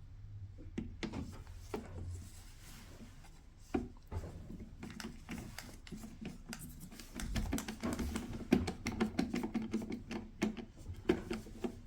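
A self-tapping screw being driven into a plastic car center console with a screwdriver: small clicks and scraping, growing busier and louder in the second half.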